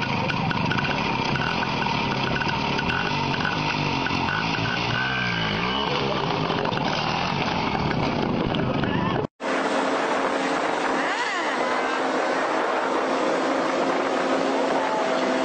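Motorcycle engine running, its revs rising and falling about five seconds in. The sound cuts off abruptly after about nine seconds and gives way to an engine holding a steady speed under a constant rushing noise.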